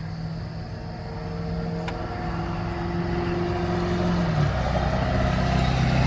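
Diesel engine of a Grove TMS800E truck-mounted crane running with a steady hum that grows gradually louder, its pitch dropping about four seconds in.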